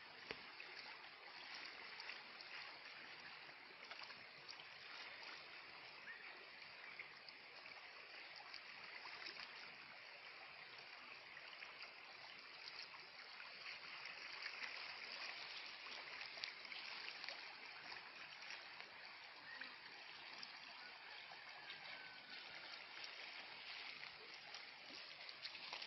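A river flowing: a steady, fairly faint rush of water with small splashes and ticks dotted through it.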